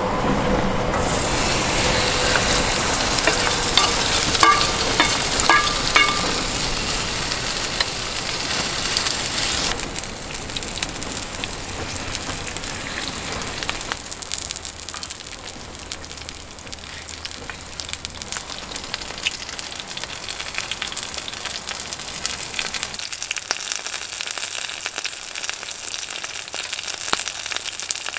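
Korean pancake batter (scallion pajeon and kimchi buchimgae) sizzling in hot oil in a pan, with a few short clinks about four to six seconds in. The sizzle turns quieter from about ten seconds in.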